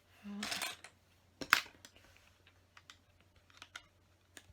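Small plastic LEGO pieces clicking and rattling as they are handled and pressed into place: a brief rustle at the start, one sharper click about a second and a half in, then scattered light clicks.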